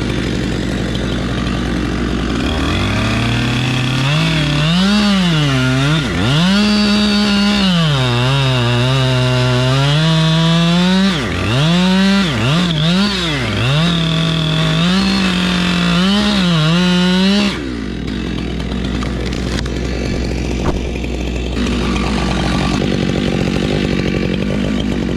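Chainsaw revving up and down over and over, throttling back almost to idle several times, then cutting off about two-thirds of the way through. A steady low engine noise runs underneath the whole time.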